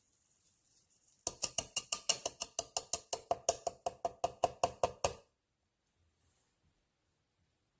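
Rapid, even series of sharp mechanical clicks, about seven a second, starting about a second in and stopping abruptly some four seconds later.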